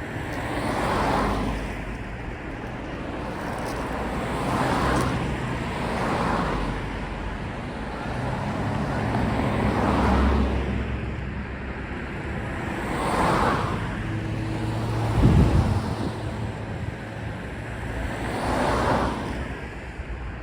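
Road traffic: a series of cars passing by one after another, each one swelling and fading over a couple of seconds. About three-quarters of the way through, a heavier vehicle adds a brief louder low rumble with a steady hum.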